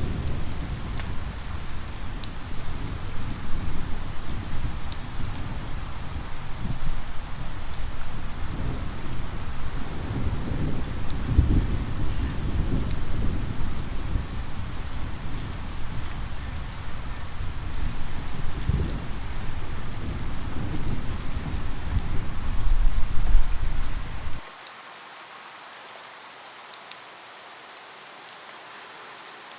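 Steady rain with a low, rolling rumble of thunder underneath. About 24 seconds in, the rumble cuts off suddenly and the sound drops to quieter, lighter rain.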